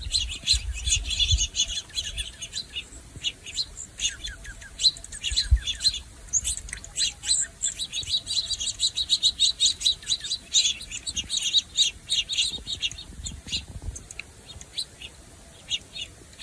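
A flock of juncos and sparrows chirping and twittering all at once, a dense chorus of short high chirps that thins out near the end.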